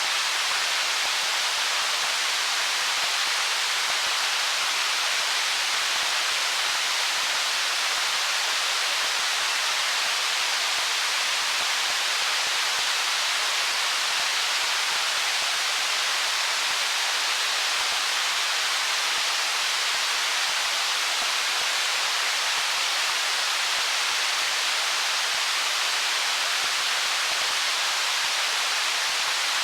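Stream water rushing over stones as a steady, even hiss with no distinct splashes or gurgles.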